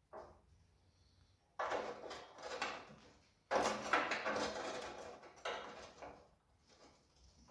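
Electric welder laying weld on a 1/8 inch steel patch on a car frame: two bursts of crackling arc noise, one about a second and a half long and a longer one of nearly three seconds, each starting and stopping abruptly.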